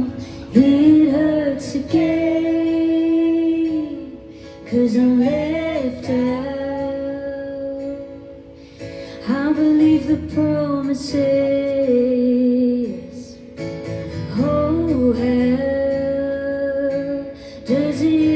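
A woman singing over guitar in a live performance, in four phrases of a few seconds each with long held notes.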